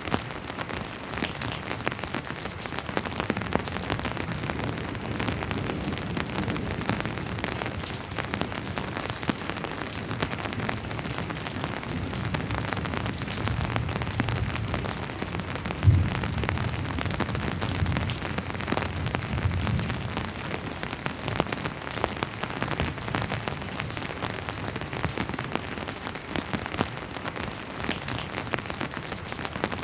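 Steady rain falling, with many individual drops striking close by. About halfway through, a low rumble of distant thunder builds for several seconds, with one sharp low thud in the middle of it.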